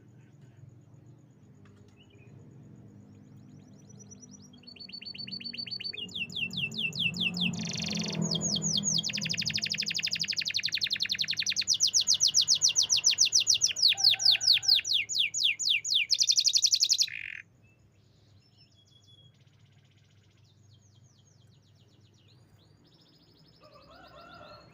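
Canary singing a long song of fast, rapidly repeated high trills that builds up a few seconds in, is loudest past the middle, and breaks off abruptly. Soft scattered chirps come before and after it.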